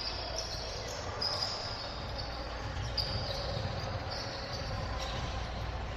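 Basketball play in a gym: sneakers squeak briefly on the court several times and a ball is dribbled, over the steady noise of a large hall.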